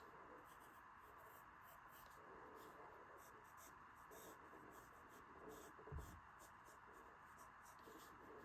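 Faint scratching of a drawing tool on paper in many short, separate strokes as a sketch is blocked in, with one soft low bump about six seconds in.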